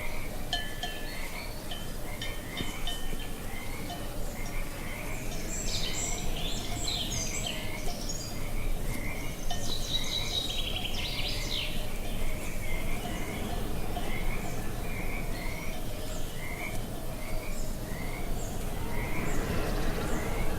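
Outdoor nature ambience: a short call repeats about twice a second throughout, with bursts of bird chirping about a third and half of the way in.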